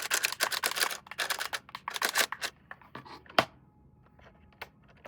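Handling of a plastic RC toy: a rapid run of sharp clicks and taps that thins out after about two and a half seconds, with one louder click about three and a half seconds in.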